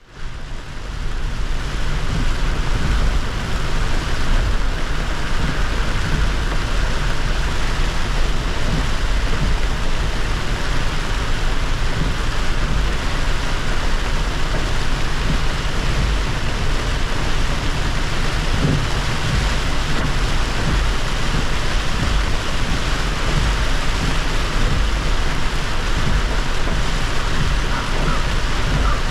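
Car driving on a wet road in heavy rain: a steady hiss of rain and tyre spray over a low road rumble, fading in over the first second.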